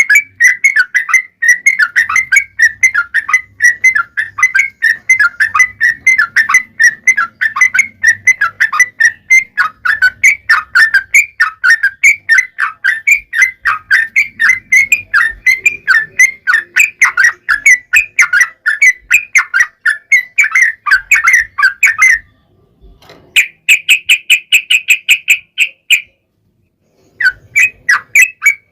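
Yellow-vented bulbul (trucukan) singing a long, rapid run of chattering notes, several a second, as a lure song to set other trucuk birds singing. About 22 seconds in it breaks off into a few seconds of faster, higher notes, falls silent, then resumes near the end.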